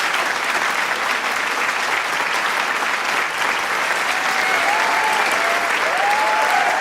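Large crowd applauding with dense, steady clapping, with shouts and whoops rising above it from about four seconds in.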